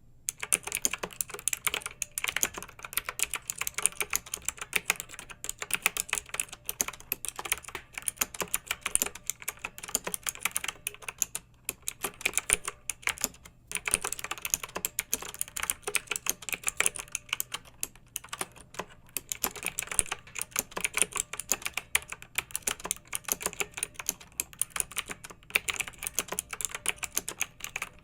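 Clicky mechanical keyboard being typed on in fast, continuous runs of keystrokes, with a couple of short pauses about halfway through.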